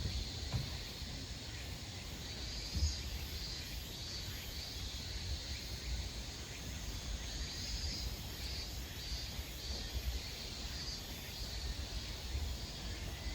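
Outdoor ambience: insects chirping in repeated pulses over a steady low rumble, with a few faint pops.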